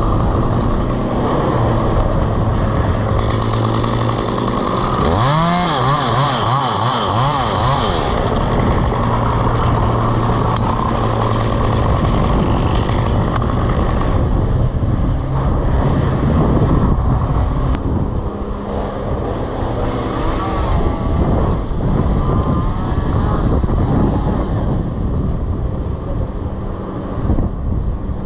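Chainsaw running: idling steadily at first, revved up and down several times about five seconds in, then running on with an uneven, fluctuating note.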